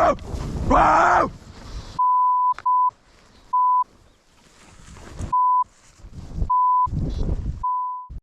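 A voice calling out, then six short, steady beeps of a censor bleep, cut in between quieter stretches, masking swearing.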